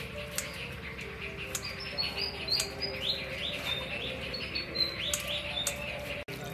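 Small birds chirping in quick series of short high notes over soft background music, with a few sharp clicks from scissors snipping soaked glass noodles.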